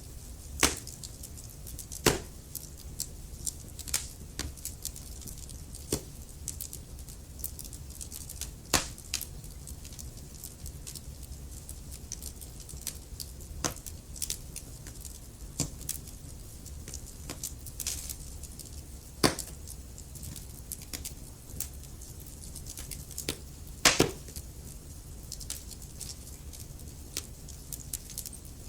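Wood fire burning in a fireplace, crackling with irregular sharp pops, a few much louder than the rest and the loudest about 24 seconds in, over a steady low rumble.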